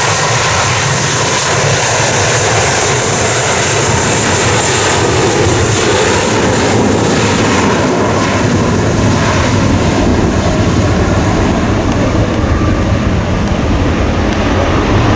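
Jet airliner engines, loud and steady. The high hiss fades after about six seconds while a deep rumble builds.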